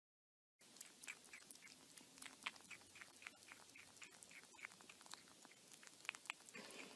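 Faint, irregular small clicks, about three a second, of a kitten chewing and biting at the rim of an orange plastic lid, starting about half a second in.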